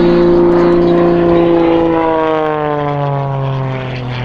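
Extra 300 aerobatic plane's 330 hp Lycoming piston engine and propeller droning overhead. The pitch starts dropping about halfway through as the plane passes by.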